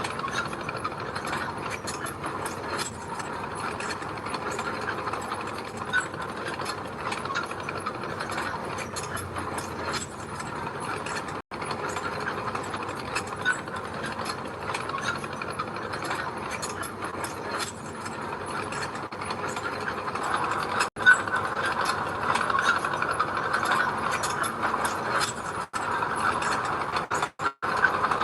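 Crawler bulldozer's steel tracks clanking and squeaking steadily as the machine moves, with its diesel engine running underneath. The sound drops out for an instant a few times.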